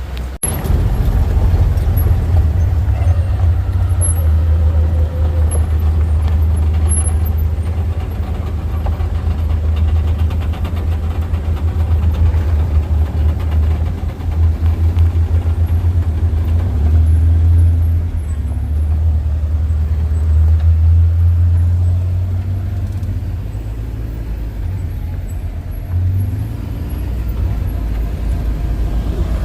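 A vehicle's engine runs with a steady low rumble while moving. It eases a little in the last third.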